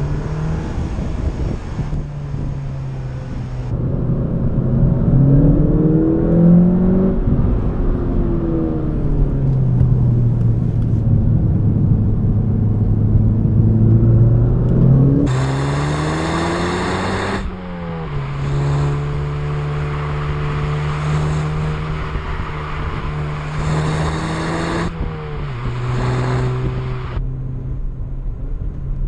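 Audi S1's turbocharged 2.0-litre four-cylinder engine under way through the gears. The revs climb about five seconds in, ease off, climb again past the middle and drop sharply at a gear change, then hold steady at a cruise.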